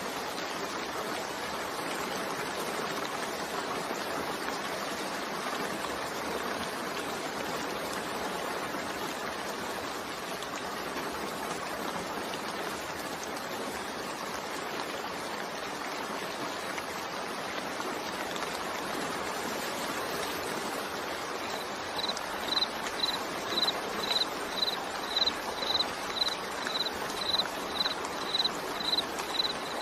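Steady rain falling, an even hiss. About two-thirds of the way through, a high-pitched chirp starts repeating about twice a second, louder than the rain.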